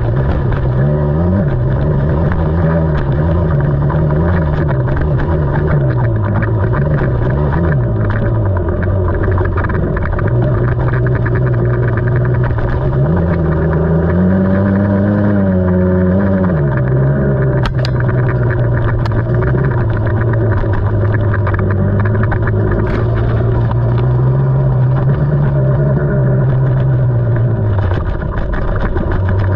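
KTM 300 two-stroke enduro dirt bike engine running while being ridden on a trail, its revs rising and falling with the throttle and climbing higher for a couple of seconds about halfway through.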